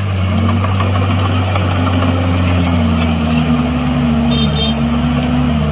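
Bulldozer's heavy diesel engine running steadily, with a deep hum and a pitch that rises slightly about two seconds in and then wavers.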